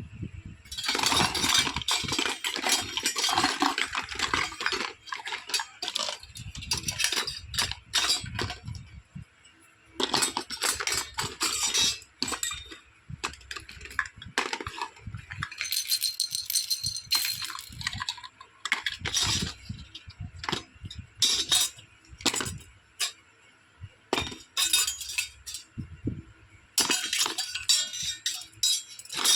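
Small plastic toy kitchen pieces clicking and clinking as they are handled and set down, with stretches of crinkling plastic packaging.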